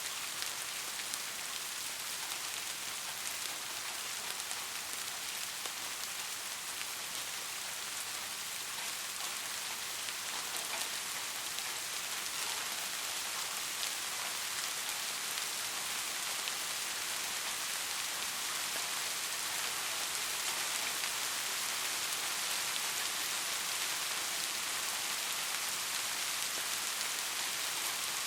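Steady rain falling, a dense even hiss of many drops with faint individual patters, growing slightly heavier about ten seconds in.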